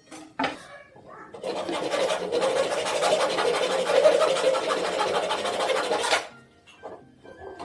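A handheld power tool runs on wood for about five seconds with a fast, even rattle, starting about a second and a half in and cutting off suddenly. A single knock comes just before it.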